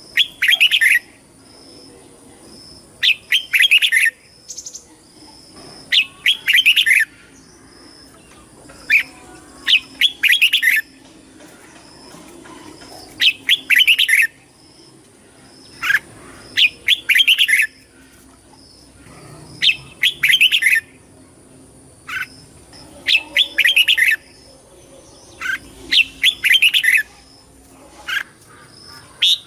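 Red-whiskered bulbul singing short, bright warbled phrases about every two to three seconds, the song used to rouse and train caged bulbuls. A faint steady high tone runs behind it.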